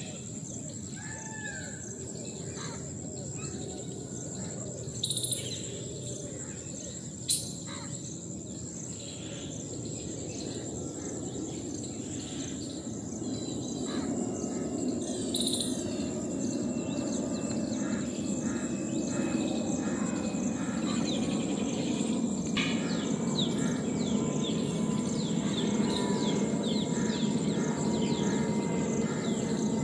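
Wild-forest ambience: birds chirping and calling over a steady high-pitched insect drone, with a low rushing background noise that grows louder about halfway through. A single sharp click sounds about seven seconds in.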